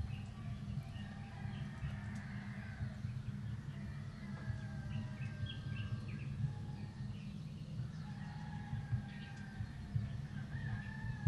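Birds chirping and calling: short chirps and longer held whistled notes come and go throughout, over a steady low rumble.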